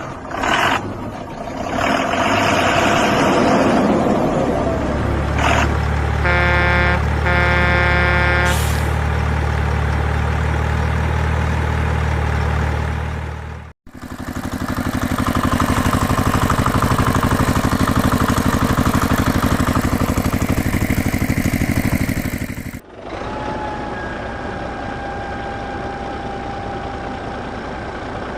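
Heavy truck engine sounds running steadily, with two short horn blasts early on. The sound changes abruptly twice, as separate engine recordings are spliced together.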